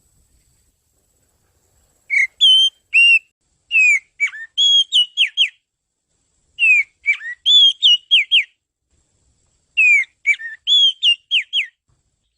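Oriental magpie-robin (kacer) song played as a lure call: three phrases of clear whistled notes and quick downward slurs, separated by pauses of about a second. The first phrase starts about two seconds in.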